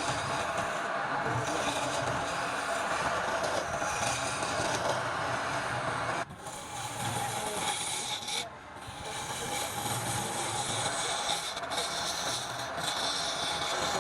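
Wood spinning on a lathe with a hand tool scraping and rubbing against it, a continuous rough rasping that breaks off briefly twice, about six and eight and a half seconds in.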